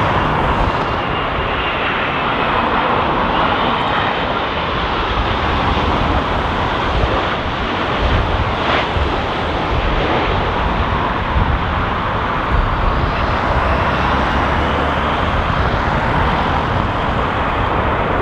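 Jet airliner engines running loud and steady as an aircraft passes on approach or landing, with a faint bending whine over a dense rush, and strong wind buffeting the microphone.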